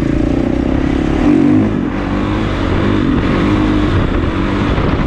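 Kawasaki KX450's single-cylinder four-stroke engine running as the dirt bike is ridden, the revs rising and falling, with a short burst of throttle about a second and a half in.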